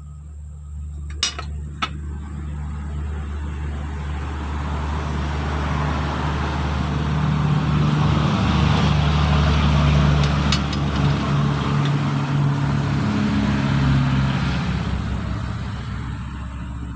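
A motor vehicle passing by: its engine and road noise swell steadily for about ten seconds, then fade away. Two short clicks come about a second in.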